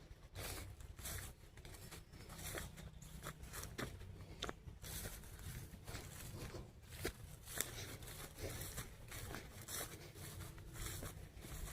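Footsteps crunching on dry ground, coming irregularly about one or two a second, over a low rumble from wind or handling of the phone.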